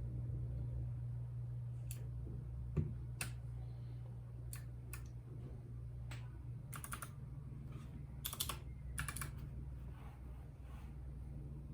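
Keys being pressed on a RAKK Lam Ang Pro mechanical keyboard with bronze switches: scattered single keystrokes and a few quick runs of clicks, over a steady low hum.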